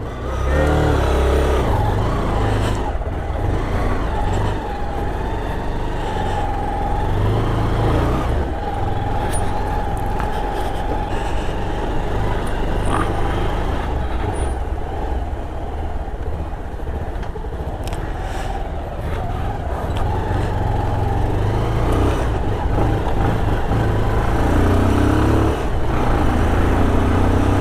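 Motorcycle being ridden on the road: a steady, continuous engine rumble mixed with road and wind noise.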